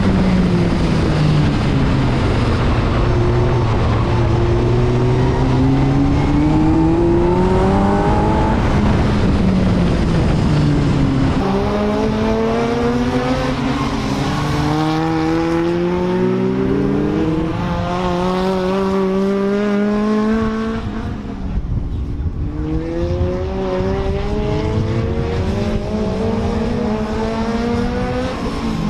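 BriSCA F2 stock car engine running hard around a short oval, its pitch climbing as it accelerates down each straight and dropping as the driver lifts for the turns, about three times.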